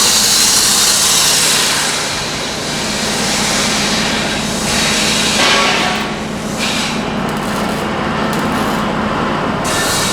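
Metal-fabrication workshop noise: a power tool or air tool hissing loudly in stretches, cutting off about six and a half seconds in, over a steady machine hum.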